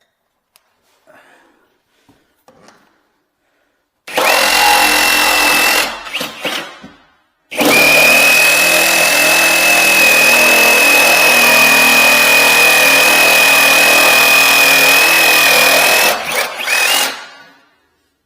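Jigsaw cutting an opening for the sink: a short run of about two seconds, then a steady run of about nine seconds with a high motor whine, each ending as the motor winds down.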